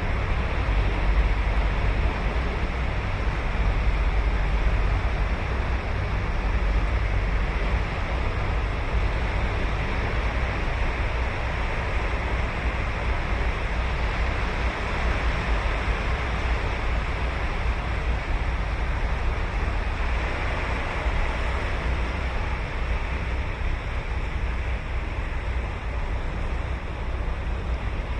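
Ocean surf breaking and washing up a beach, a continuous rushing wash with a deep low rumble, swelling slightly louder in the first few seconds.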